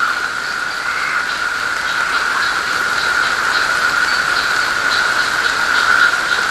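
Steady rain falling, a continuous hiss with faint light patter, over a constant high-pitched whine.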